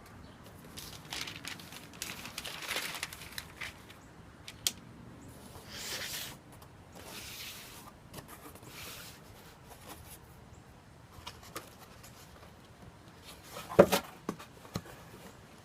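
Shipping packaging being opened by hand: tearing and rustling of tape, paper and cardboard in short bursts, with small clicks and one sharp knock near the end.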